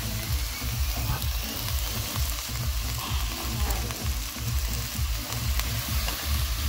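Cubed boiled potatoes and onion frying in a nonstick pot, a steady sizzle, with a wooden spoon stirring and scraping them around. Background music's low beat pulses underneath.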